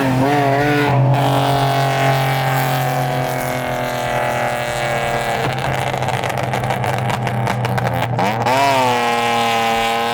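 Car engine running hard under load, its note sagging slowly, then dipping and climbing steeply near the end as it revs up again.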